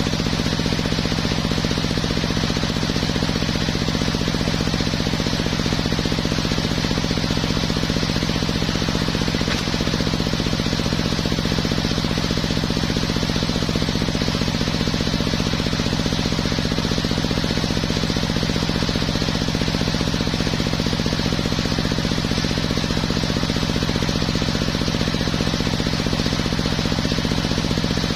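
Homemade engine-driven circular sawmill running steadily, a constant engine hum with a fast, even pulse that does not change in pitch or level.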